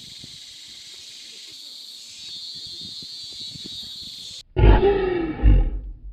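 A steady high hiss, then about four and a half seconds in an animal gives a loud call lasting about a second and a half, rising to two peaks.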